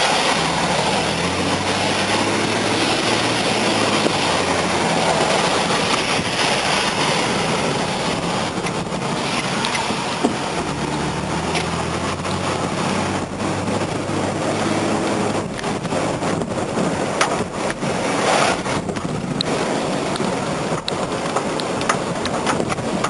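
Car driving, engine and road noise heard from inside the car, with a low engine drone that comes up twice.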